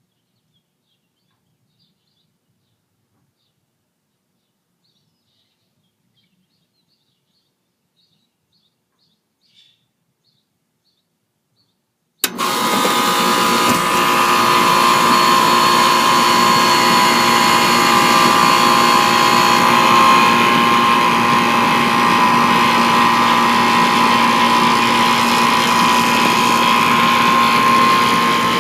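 Near silence with a few faint chirps, then about twelve seconds in a central air conditioner unit starts up with a sharp click and runs loudly and steadily, a hum with a steady whine from the compressor and fan.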